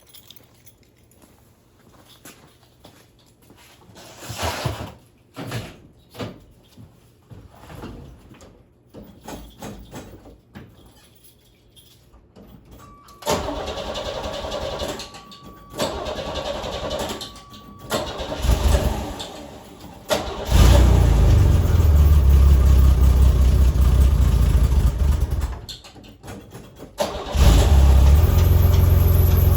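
Cold start of a 1985 Chevy S10's carbureted 2.8-litre V6 exhausting straight out of a Borla muffler with no tailpipe. The starter cranks it, and about twenty seconds in it catches and runs loudly for about five seconds. It then dies and fires again near the end. This sputtering and dying while very cold is something the owner guesses is a carburetor problem, needing a clean-out or rebuild.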